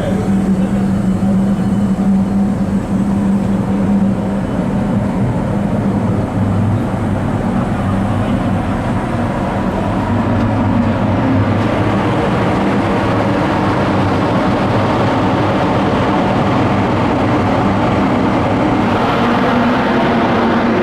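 Steady machinery hum over a constant rushing noise. The hum is strongest for the first few seconds, then fades under the noise.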